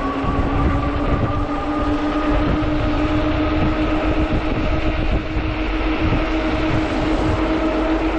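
Electric motor whine of a 48V fat-tire e-bike, its pitch rising slowly and steadily as the bike gains speed, over a constant low rumble of wind and tyres.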